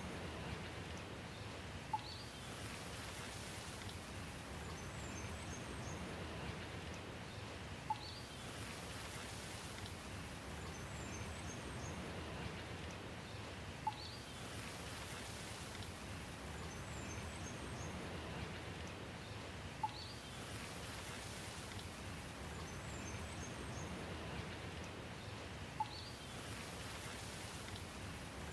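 Steady soft rain with faint high bird chirps. A short tick with a quick rising note repeats about every six seconds, as in a looped recording.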